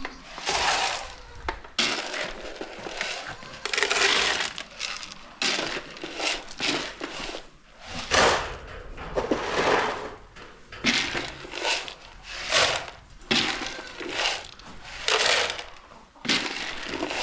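Dry grain being scooped and poured, a run of short crunching, rattling pours about one a second.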